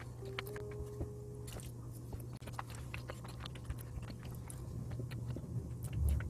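Close-up chewing of soft mugwort bread, with many small, irregular wet mouth clicks. There is a low thump near the end.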